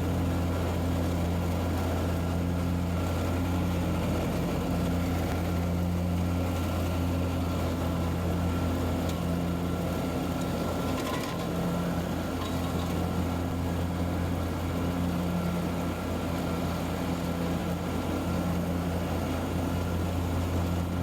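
John Deere Z960M zero-turn mower's V-twin engine running steadily, a constant low hum whose upper tones slowly swell and fade.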